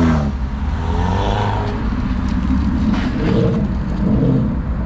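Car engine running and revving, its revs falling away at the start.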